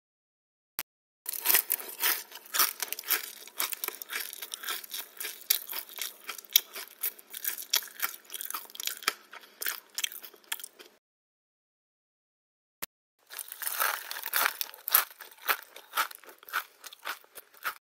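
Two takes of a person biting into and chewing crunchy food. Each opens with a single short click and goes on as a dense, irregular crunching: the first runs about ten seconds, and the second starts after a short silence and runs about four seconds.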